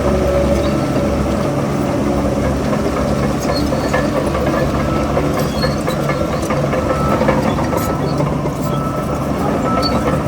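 Heavy earthmoving machine's diesel engine running steadily, with scattered light clicks and clinks over it.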